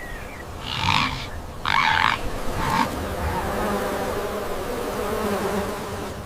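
Steady buzzing of insects, with three short harsh sounds in the first three seconds, the middle one the loudest.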